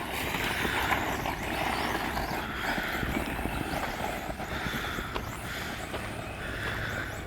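Brushless 2WD RC short-course trucks driving off over dirt, mostly tyres churning loose dirt and gravel, surging louder and softer as they accelerate.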